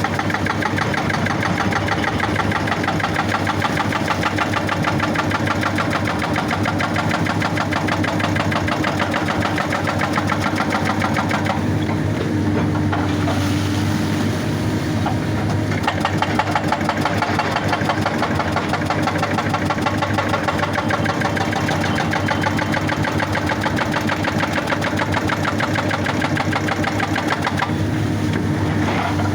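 Excavator's hydraulic rock breaker hammering rapidly and steadily against rock over the excavator's diesel engine running. The hammering stops briefly about twelve seconds in and again near the end while the engine keeps running.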